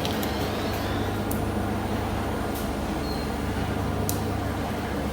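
A machine or engine running steadily with a low hum, with a few faint clicks scattered through it.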